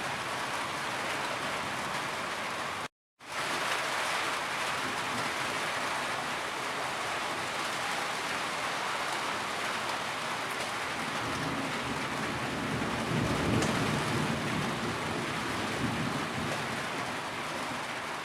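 Steady heavy rain, a dense even hiss of falling water. About three seconds in it drops out to silence for a split second, an editing splice, then resumes, and a deeper low rumble swells about two-thirds of the way through.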